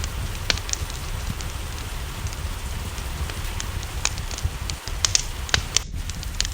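Wood fire crackling, with irregular sharp pops over a steady low rumble, mixed with the soft hiss of rain.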